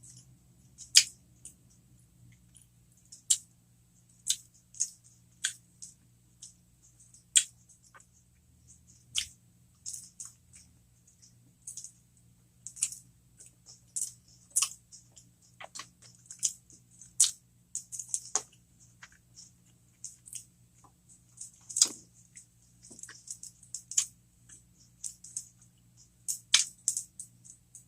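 Close-miked chewing of cheeseburger jalapeno poppers: irregular wet mouth clicks and smacks, about one or two a second.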